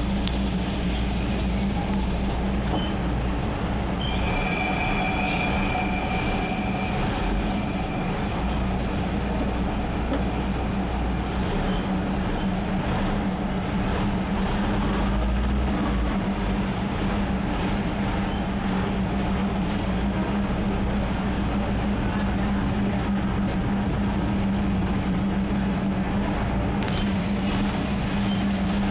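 A train running along the track with a steady low drone, and a brief high squeal, likely from the wheels, about four seconds in.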